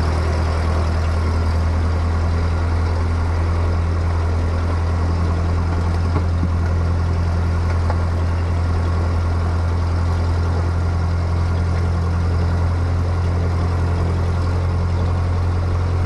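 Cessna 152's Lycoming four-cylinder piston engine running steadily at low power, a continuous low drone with no change in pitch or level.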